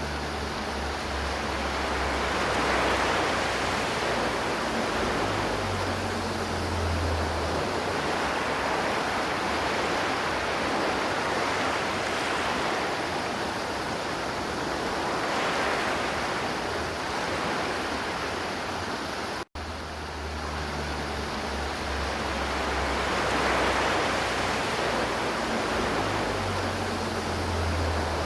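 River water flowing, a steady even rushing. It cuts out for an instant about two thirds of the way through, where the recording loops.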